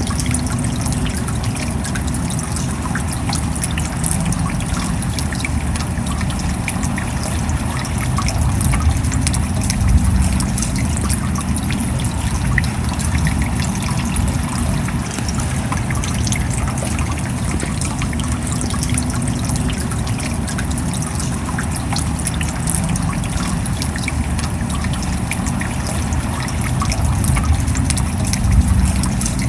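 Steady rain, a dense patter of many small drop impacts over a low rumble, swelling slightly about ten seconds in and again near the end.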